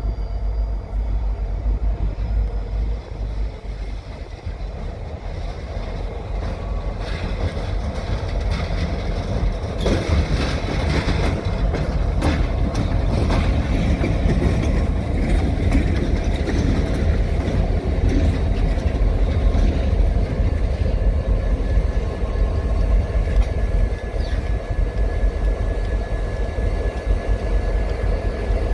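Freight train on the move: a diesel locomotive's steady deep rumble with rail cars rolling, a run of sharp clicks partway through and a thin high squeal coming in near the end.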